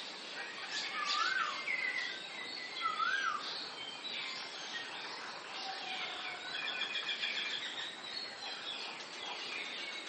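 Several birds singing and calling in tree canopy over a steady background hiss. Two rising-and-falling whistled notes come in the first few seconds, and a quick run of short high notes about seven seconds in.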